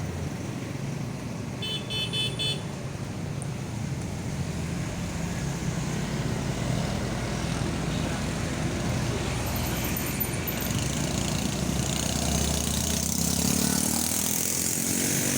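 Road traffic: vehicle engines running and passing, with a brief high-pitched horn toot about two seconds in and an engine's pitch rising as it pulls away near the end.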